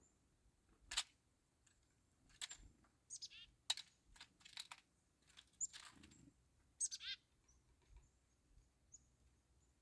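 Black-capped chickadees at a feeder: a scattering of sharp taps and clicks, with two quick high call notes sweeping downward about three seconds in and again about seven seconds in, and a few faint high chips.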